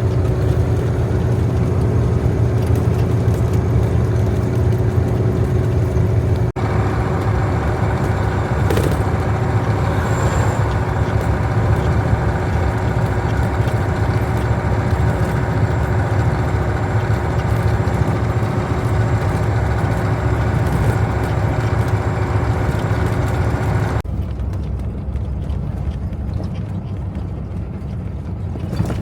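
Heavy diesel harvest machinery running steadily under load. The sound changes abruptly about six seconds in, and about 24 seconds in it becomes quieter and duller.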